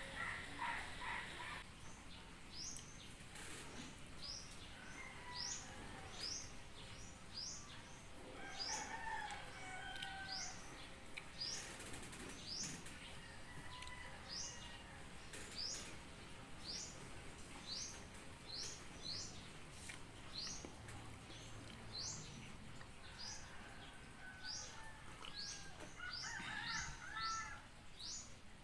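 Birds calling outdoors: a small bird repeats a short, high, rising chirp over and over, about once a second, with a few lower warbling calls from other birds now and then.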